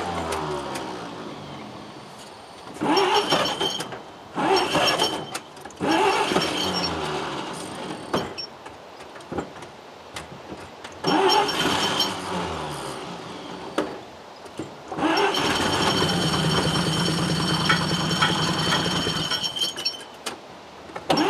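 A 1938 GMC truck engine being cranked in about five separate tries. Each try fires briefly and then winds down, and the longest run comes near the end. Its fuel pump is switched off, so it will not keep running.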